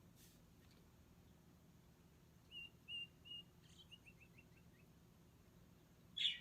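Recorded bird call played back through a smart speaker, faint: three short chirps about two and a half seconds in, then a quick falling run of about six notes.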